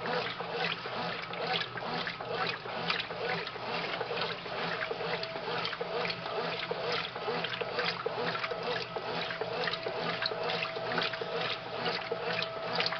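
Brastemp Mundial top-loading washing machine washing a thin double blanket at a low water level: water sloshing and splashing without a break over a steady motor hum.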